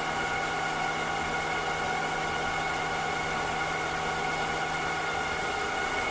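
Cleaning robot running: a steady whirring hum with several held whining tones over a hiss. Its lowest hum fades out near the end.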